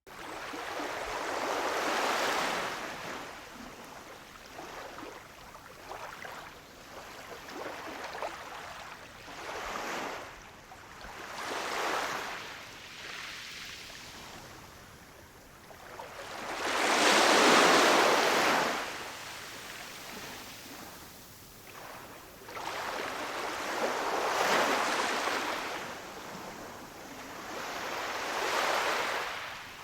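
Ocean surf on a shore: waves wash in and draw back in slow swells every few seconds, the loudest swell just past the middle.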